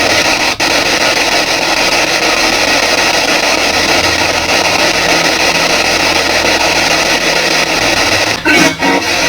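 P-SB7 spirit box sweeping through radio frequencies, giving a steady loud hiss of static with brief cut-outs as it jumps between stations, once about half a second in and again near the end.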